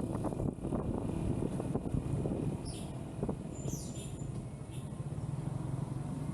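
Motorcycle engine running steadily while riding, with wind rumbling on the microphone. A few short high chirps sound about three to four seconds in.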